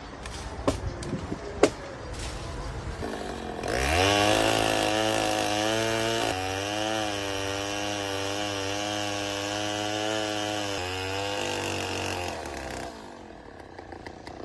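Chainsaw revving up about four seconds in and running at high speed for about nine seconds, its pitch wavering as it works, then dropping off near the end. A few sharp knocks come before it starts.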